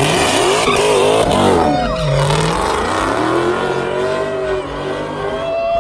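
Car engine revving hard, its pitch climbing and dropping repeatedly, with tire squeal.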